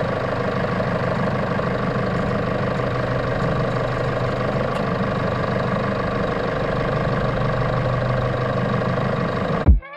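Steady engine hum at a constant pitch, cut off suddenly near the end as music starts.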